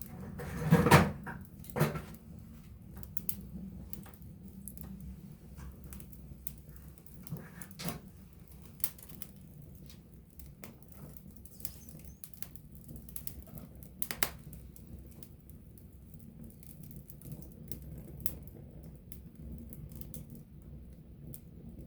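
Wood campfire crackling up close: irregular sharp pops and snaps over a low, steady rumble of the flames. The loudest crackle comes about a second in, with another strong pop near two seconds.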